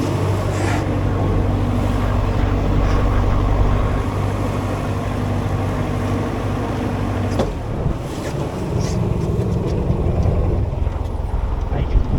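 Leisure boat's engine idling with a steady low hum that stops abruptly about seven seconds in, leaving wind buffeting the microphone.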